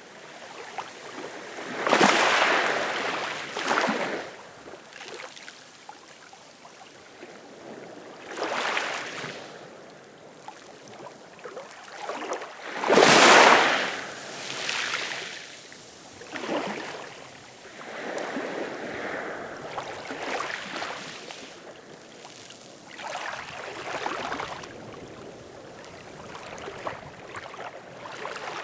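Ocean waves washing and splashing in irregular surges, each lasting a second or two, with quieter hiss of water between them; the biggest come about two seconds in and near the middle.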